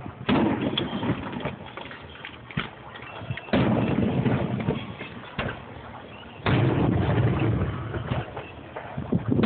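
Aerial fireworks shells bursting: three big booms, about a third of a second, three and a half seconds and six and a half seconds in, each rolling away in a low rumble, with smaller pops and crackles between them.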